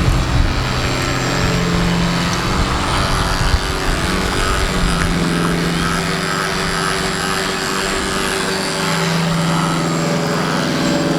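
Steady motor hum with a few held tones that shift slightly in pitch, over wind buffeting the microphone.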